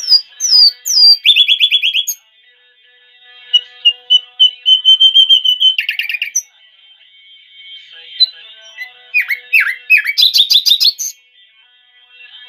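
A songbird singing in varied phrases: short rising whistled notes, fast trills about a second in and near the end, and a long run of quick repeated notes in the middle.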